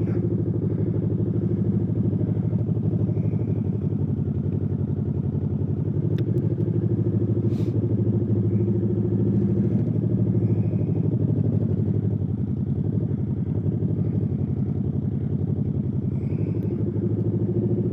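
Motorcycle engine idling steadily, with an even, unchanging pitch and no revving.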